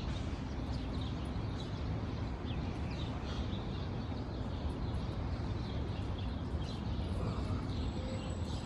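Wild birds chirping, many short calls scattered throughout, over a steady low background rumble. A thin high steady tone comes in near the end.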